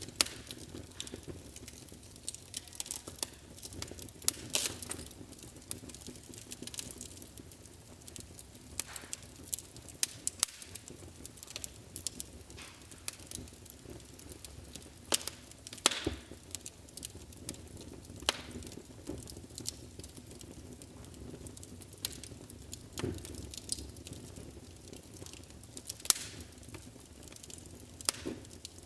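Wood fire burning in a fireplace, crackling: irregular sharp pops and snaps over a soft steady hiss of the flames.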